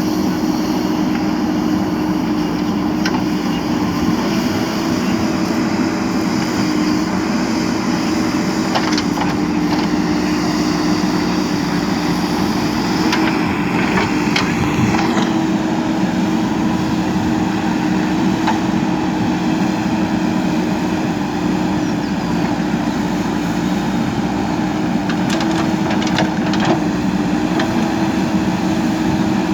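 A JCB 3DX backhoe loader's diesel engine running steadily, with a few faint knocks.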